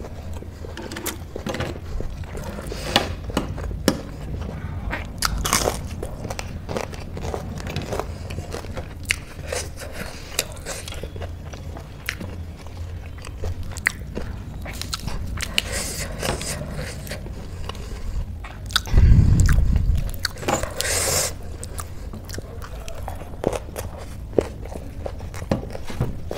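Close-miked eating: chewing with many sharp crunches and mouth clicks, and fingers mixing rice on a steel plate. About two-thirds of the way through comes a louder low thud lasting about a second.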